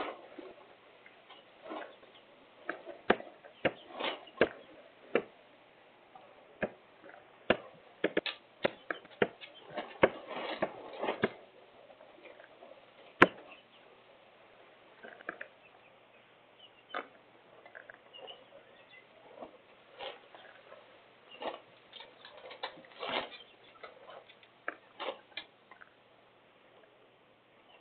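Irregular taps and clicks of wind-driven raindrops striking the window glass, over a faint hiss, with one sharper, louder tap about 13 seconds in.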